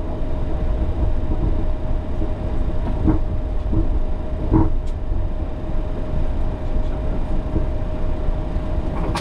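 Flight-deck noise of a Boeing 737 taxiing to line up on the runway: a steady low rumble with a steady hum running through it, and a few soft knocks about three to five seconds in.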